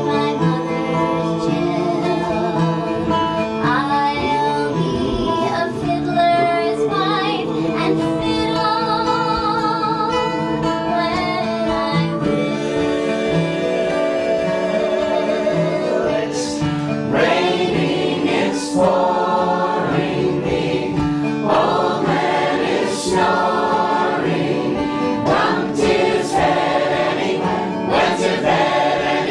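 A folk song sung by a small group of voices in harmony, with acoustic guitar accompaniment.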